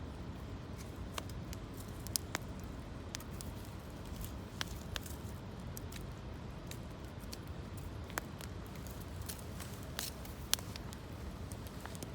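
Campfire of gathered branches and twigs crackling, with sharp irregular pops every second or so over a steady low rush.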